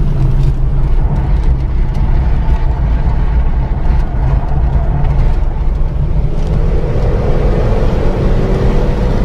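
Renault Mégane 3 RS Trophy's turbocharged four-cylinder engine and tyre and road noise at speed, heard onboard, steady and loud. A faint rising whine comes in about two-thirds of the way through.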